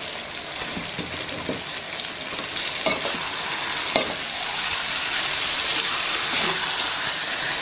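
Raw chicken pieces sizzling as they fry in oil and spice paste in a wok, the sizzle growing a little louder. A metal spatula scrapes and knocks against the wok a few times, most sharply about three and four seconds in.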